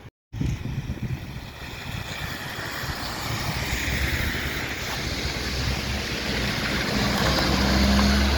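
A vehicle approaching, its rushing road or rail noise and low engine hum growing steadily louder toward the end. There is a brief dropout to silence at the very start.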